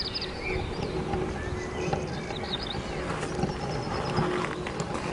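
Small birds chirping: a few short, high twitters near the start and again about two and a half seconds in, over a steady low outdoor rumble and a faint steady hum.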